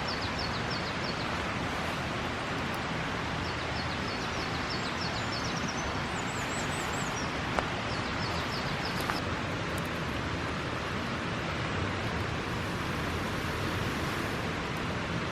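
Steady outdoor rushing noise, with a small bird giving several quick runs of high chirps and a couple of faint snaps partway through.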